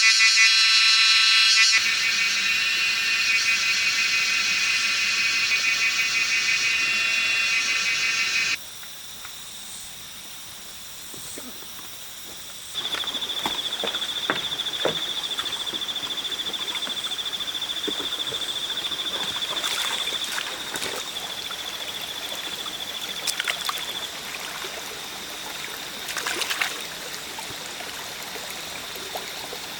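Insects buzzing: a loud, shrill drone that stops abruptly about eight seconds in. Later comes a steady, high, pulsing trill with scattered clicks.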